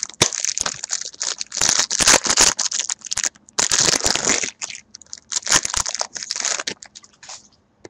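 Trading card pack wrappers being torn open and crinkled by hand: a run of irregular crackles and rustles that stops near the end.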